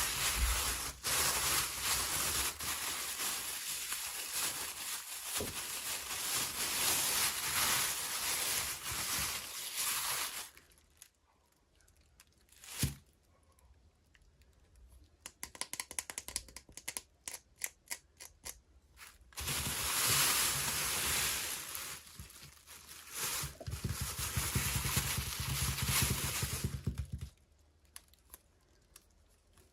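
Toy packaging being opened by hand: wrapping crinkling and tearing for about ten seconds, a single sharp snap, a quick run of small clicks, then more crinkling and rustling.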